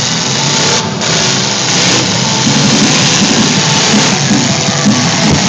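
Demolition derby car engines running loud and revving unevenly, their pitch rising and falling, over a dense steady roar.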